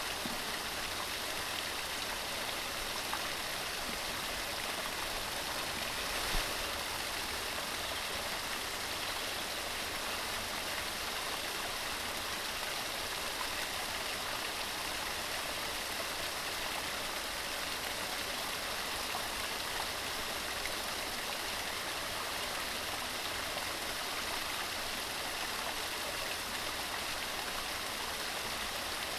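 Steady rushing and babbling of a fast mountain stream running over stones off the Skiddaw range, with one brief low bump about six seconds in.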